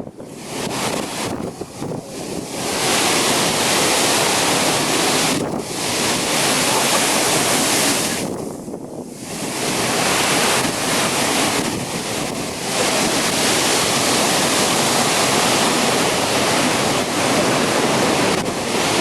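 Typhoon wind blowing hard with heavy rain, buffeting the microphone in a loud, constant rush. It eases briefly a few times, most clearly about eight to nine seconds in, then rises again.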